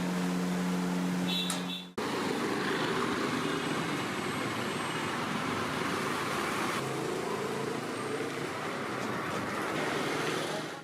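A steady mechanical hum that stops at an abrupt cut about two seconds in, followed by continuous road traffic noise.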